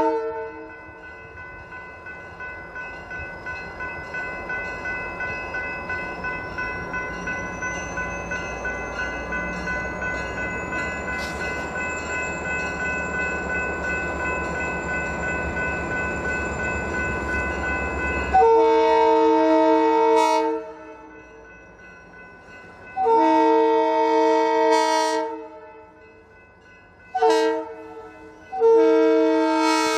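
Diesel freight train approaching, growing steadily louder with a regular beat. Its locomotive horn then sounds long, long, short, long, the standard grade-crossing signal.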